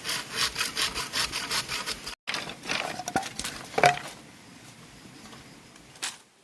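Hand saw cutting bamboo in quick back-and-forth strokes, about four or five a second. The strokes break off, come back briefly, and end with a sharp knock of wood about four seconds in.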